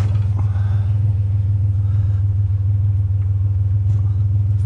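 Pickup truck engine running as a steady low drone, with a single sharp click right at the start.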